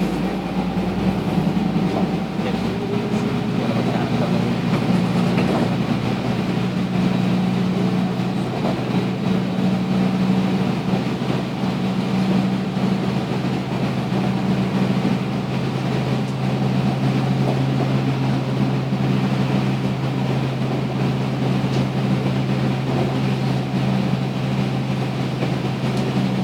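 Public transit vehicle in motion, heard from inside the cabin: a steady rumble with a motor hum that shifts lower in pitch about halfway through.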